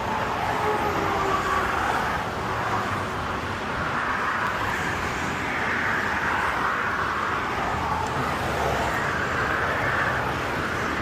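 Steady road-vehicle noise: a continuous rushing of traffic or a moving vehicle.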